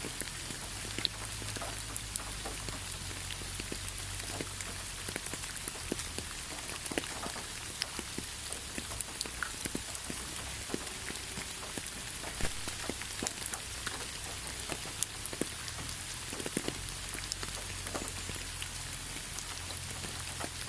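Steady rain falling, an even hiss with scattered individual drops ticking sharply on nearby surfaces, over a faint low rumble.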